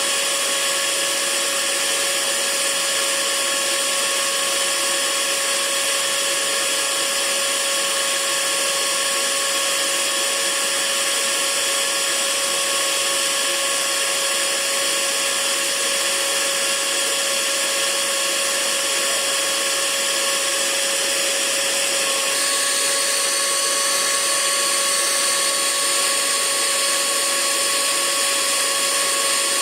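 Hair dryer running steadily: a constant airy hiss with a steady motor whine over it. Its tone shifts slightly about three-quarters of the way through.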